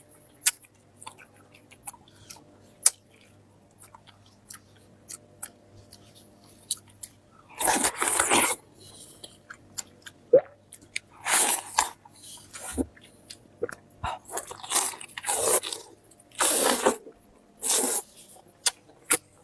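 Close-miked eating: a person chewing, with many small wet mouth clicks, then from about eight seconds in several louder crunching bursts, each under a second long.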